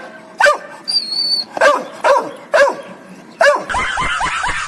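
A dog barking repeatedly in short, sharp barks, speeding up into a quick run of yips near the end. A brief high whistle-like tone sounds about a second in.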